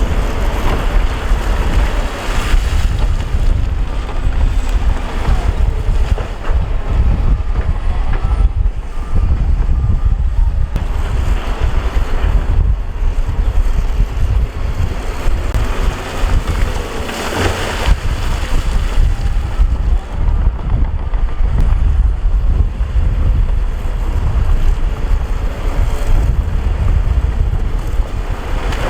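Heavy earthmoving machinery running, a steady low engine rumble, with wind buffeting the microphone. There is a brief swell about two-thirds of the way through.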